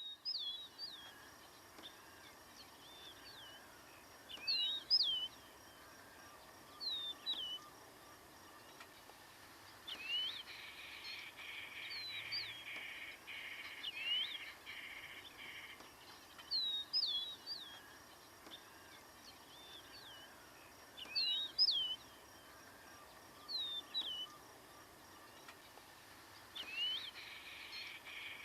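Wild birds calling: clusters of short whistled notes that sweep sharply in pitch, repeated every few seconds. A rapid buzzy trill runs for several seconds about ten seconds in and starts again near the end.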